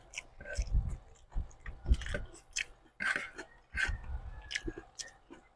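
Close-miked chewing of a mouthful of rice and fish, with irregular wet mouth clicks and soft low thumps several times a second.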